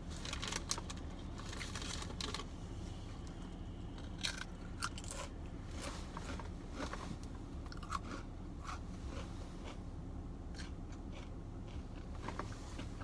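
A person biting into and chewing a sandwich on a Kaiser roll close to the microphone: repeated short crunches from the bread, thickest in the first couple of seconds, over a steady low hum.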